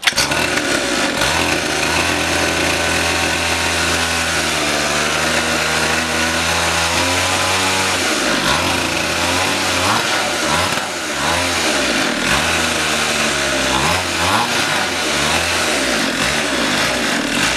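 A 50cc pit bike engine starts and runs with no exhaust pipe fitted, so it is loud and rattly, booming straight out of the open exhaust port. It runs steadily at first, then is revved up and down in repeated blips over the second half.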